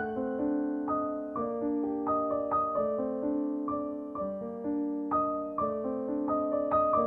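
Background piano music: a gentle melody of struck notes, each ringing and fading, several a second.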